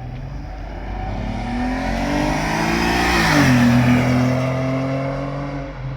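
Ford Edge 3.5 AWD's V6 with a valved exhaust accelerating past. The engine note rises, drops in pitch as the car goes by about three seconds in, then runs on steadily and fades as it moves away.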